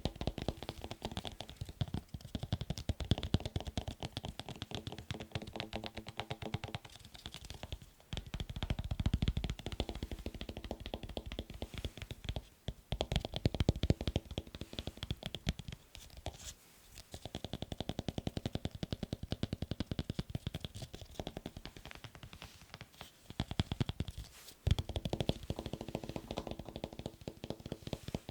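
Very fast fingertip and fingernail tapping on assorted objects, in stretches of several seconds with short breaks between them. Some of the tapped objects ring faintly.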